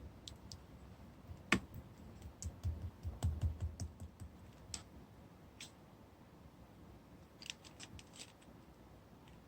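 Slime being pressed and worked by hand, giving irregular small clicks and pops. There is a denser run of clicks with soft thuds in the middle and another short run of clicks near the end.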